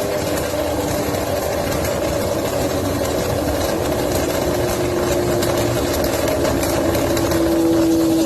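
Motorcycle engine running steadily, its tone edging up slightly in pitch and level toward the end.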